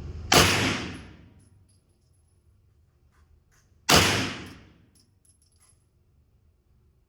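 Two single shots from a 9mm AR-style carbine, about three and a half seconds apart, each sharp report trailing off in about a second of echo.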